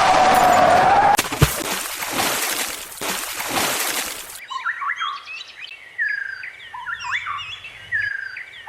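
Birds chirping in a series of short gliding calls, taking over about halfway through. Before them come a loud noisy sound with a wavering tone, a sharp knock at about a second and a half in, and a few seconds of rushing noise.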